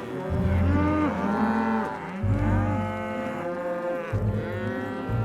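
Cartoon cows mooing several times over steady background music.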